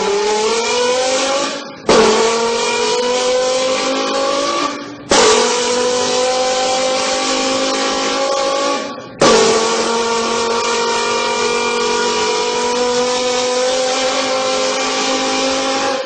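A car engine accelerating hard through the gears: its pitch climbs, then drops abruptly at a gear change about 2, 5 and 9 seconds in. Each gear lasts longer and climbs less than the one before.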